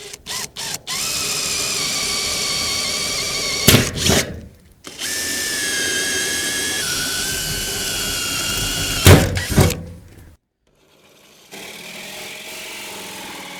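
Power drill boring holes through sheet-metal roofing: a few short trigger blips, then two steady runs of a few seconds each with a high whine, stopping about ten seconds in.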